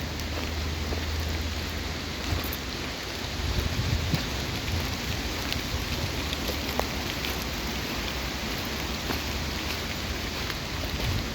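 Steady rain falling, with close drops ticking sharply here and there over a low rumble.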